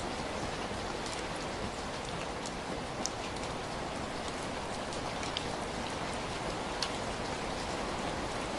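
Heavy rain falling steadily, a dense even hiss with individual drops ticking sharply here and there.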